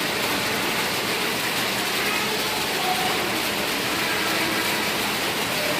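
Steady heavy rain falling, with a few faint voices underneath.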